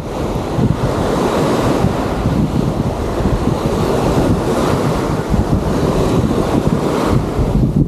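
Sea waves washing onto a sandy beach, with wind buffeting the microphone in a steady rumbling rush.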